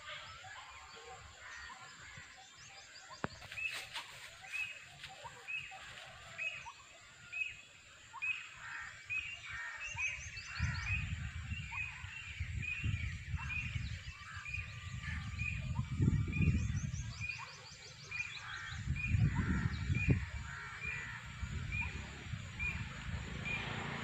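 Birds calling: one bird repeats a short high note about one and a half times a second, with other chirps above it. A low rumble joins in the second half.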